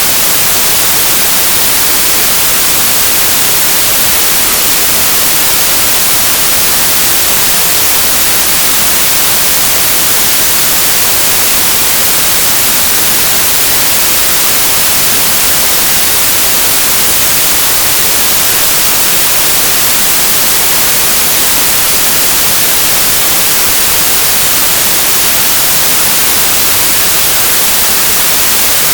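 Synthesised white noise: a loud, steady, unchanging hiss, bright and even, with no tones or breaks.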